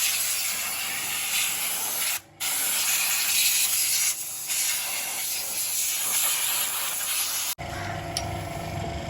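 Steady hiss of a compressed-air spray, with a short break a little over two seconds in. It cuts off abruptly near the end, leaving a lower steady workshop hum.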